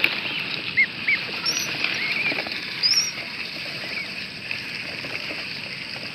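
Ducklings peeping: a few short, high chirps over a steady hiss of background noise.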